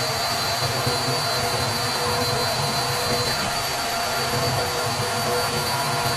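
CNC milling machine running steadily: a high spindle whine over a constant machining noise and a low hum.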